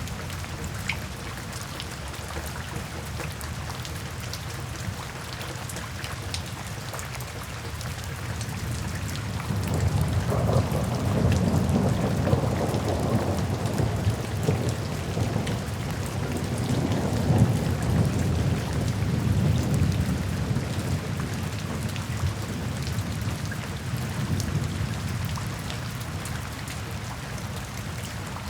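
Steady rain falling into puddles, with drops pattering on the water. About a third of the way in, a long roll of thunder builds, swells twice and slowly fades away.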